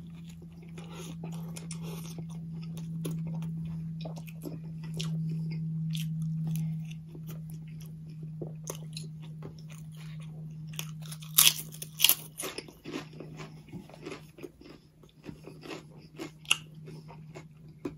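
Close-miked chewing and biting on a Subway sub sandwich: wet mouth sounds with scattered crunches and clicks, the sharpest about eleven and a half and twelve seconds in. A steady low hum runs underneath, strongest over the first few seconds.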